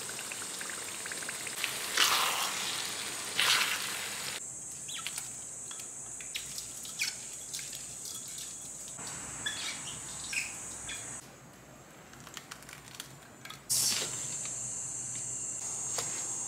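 Chilli paste frying in a wok: a steady high sizzling hiss with scattered small pops and scrapes, a few louder surges, and a short dip past the middle where it drops away for a couple of seconds.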